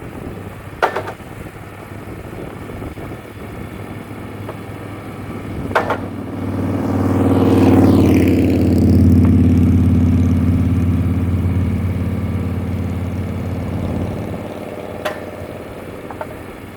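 Wood-Mizer LT35 sawmill's engine running, throttling up about six seconds in, holding high for several seconds, then easing back down. Sharp metallic knocks come near the start, just before the rise and near the end.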